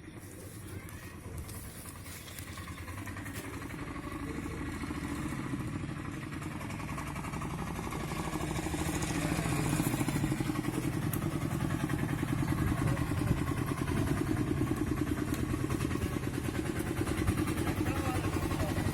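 A small engine running steadily, growing louder over the first ten seconds and then holding at a steady level.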